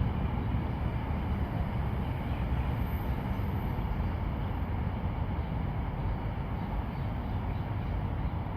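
Steady, low rumbling outdoor background noise with no distinct events.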